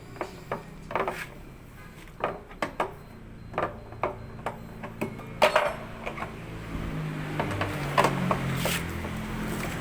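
Irregular clinks and knocks of tools and metal parts being handled during washing-machine repair work, about a dozen sharp strikes. A low steady hum comes in about seven seconds in.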